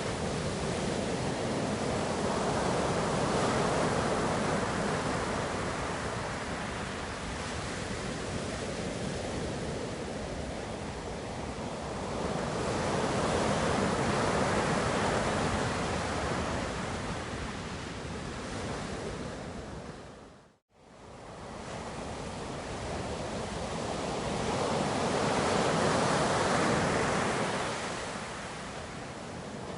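Ocean waves breaking and washing in, a steady rush that swells and ebbs three times, about twelve seconds apart. About two-thirds of the way through, the sound cuts out abruptly for a moment and fades back in.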